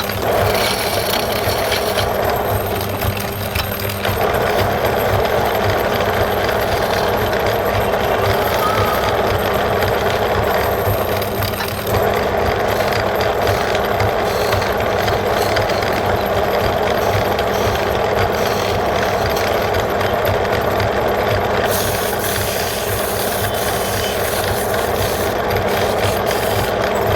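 Wood lathe running steadily with a motor hum under the scraping of a turning tool cutting the spinning wood; the cutting noise eases briefly a couple of times.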